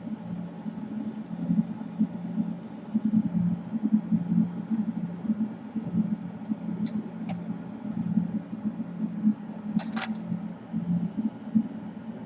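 Steady low hum of a small fan or motor, with a few light clicks about six and a half seconds in and a sharper click about ten seconds in.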